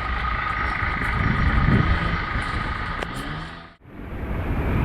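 Steady road and wind noise of a moving car, heard from inside the vehicle. It cuts off abruptly about four seconds in, then a different steady wind and road noise starts.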